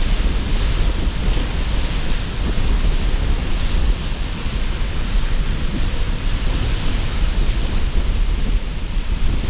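Sea surf washing in under strong wind: a continuous rushing noise with a deep, buffeting rumble beneath and gentle swells in the hiss as waves come and go.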